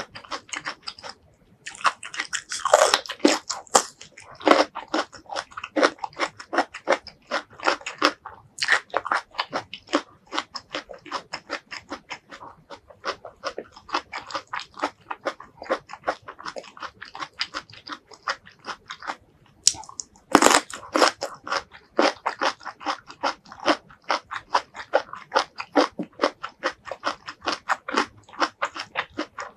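Close-miked crunchy biting and chewing of a spear of stir-fried asparagus: a steady run of crisp crunches, with louder bites about 3 seconds in and again about 20 seconds in.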